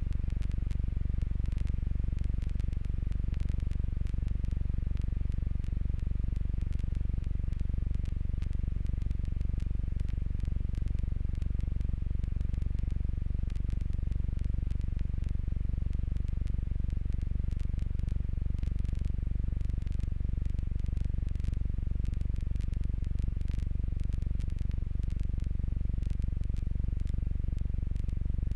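Steady low drone of a Jabiru J120 light aircraft's engine and propeller heard inside the cabin, with faint clicks and crackle over it.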